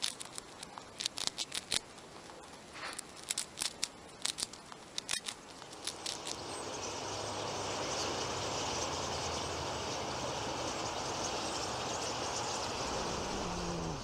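Sharp, irregular little clicks and crackles from a white dwarf hamster nibbling in a cupped hand. About six seconds in, a large flock of small birds takes over: a dense, steady chatter that grows louder and then holds.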